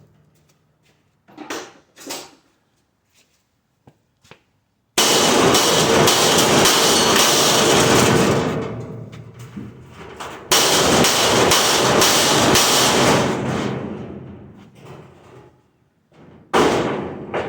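Loud banging and clattering of metal as a stainless steel dishwasher is broken apart for scrap: a few light knocks, then two stretches of dense banging a few seconds each that start suddenly and fade out, and a short burst near the end.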